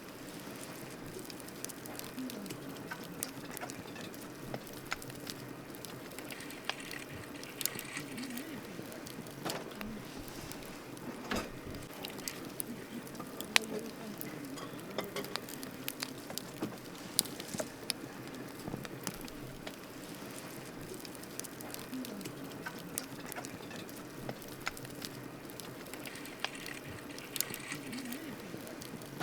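Wood campfire crackling: a steady soft hiss with irregular sharp pops, a couple of them much louder a little past the middle.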